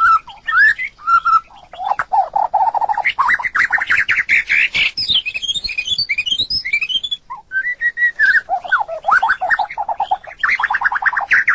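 White-rumped shama singing: a continuous, varied song of clear whistled notes, fast rattling trills and rising and falling sweeps, with a brief pause about seven seconds in.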